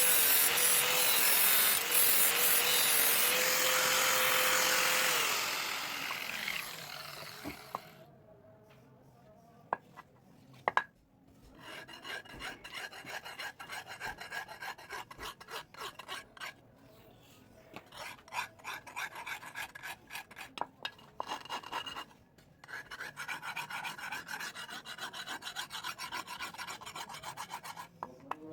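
A power tool grinding steel with a steady hum, dying away about six seconds in. Then a hand file rasps over the steel sickle blade in quick runs of strokes with short pauses between them.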